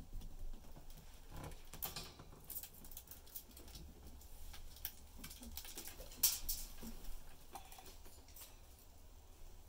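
Pet budgies moving about and pecking in their cage: irregular light clicks and scratches, with one sharper click about six seconds in.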